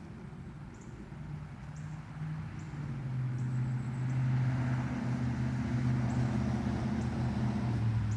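A steady engine hum that grows louder about three seconds in and holds.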